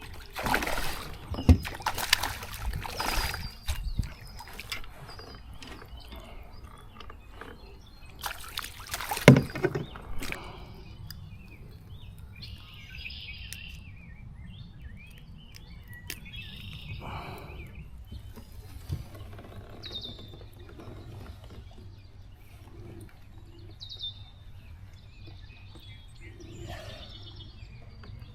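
Splashing and knocking of water and gear around a kayak, in loud bursts near the start and again about nine seconds in, then a quieter stretch with short, high bird calls that drop in pitch, repeating every few seconds.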